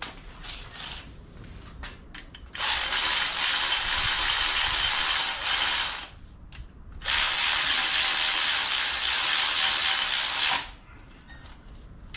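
A power tool running bolts in, in two steady runs of about three and a half seconds each with a short pause between, after a few light clicks.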